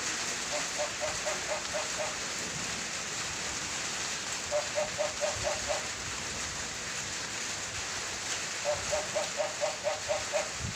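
A steady rushing noise, with three runs of quick, evenly repeated calls from an animal, about six notes a second, each run lasting one to two seconds.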